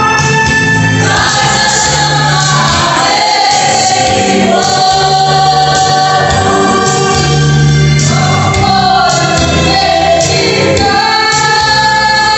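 Gospel music: a choir singing held notes over instrumental backing.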